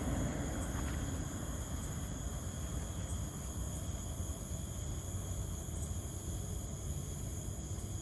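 Steady high trilling of crickets or other insects over a low, even rumble: an approaching train, still far off and faint.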